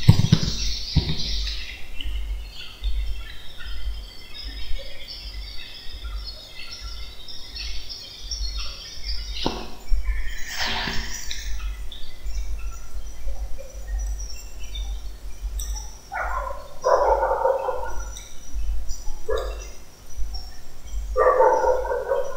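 Small birds chirping in short, scattered calls, with a few keyboard clicks in the first second and two louder, lower-pitched sounds in the second half.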